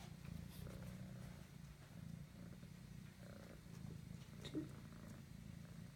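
Kitten purring steadily, with a faint click about two-thirds of the way through.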